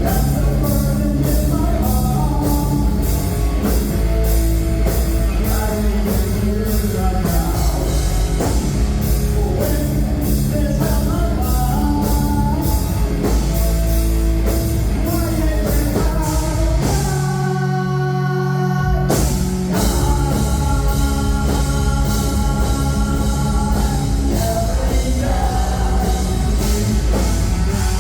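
Live heavy rock band playing loud, with a driving drum kit, distorted guitars and bass. About seventeen seconds in, the drums and bass drop out for a couple of seconds, leaving held guitar notes, before the full band crashes back in.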